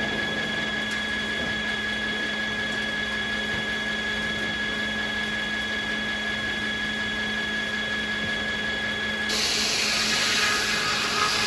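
Sawmill saw machinery running with a steady whine over mechanical noise. Near the end a louder, high hissing sound comes in as a blade cuts through wood.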